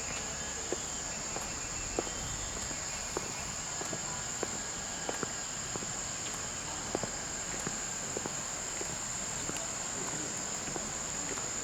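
Insects droning steadily at one high pitch, with scattered light clicks at irregular intervals.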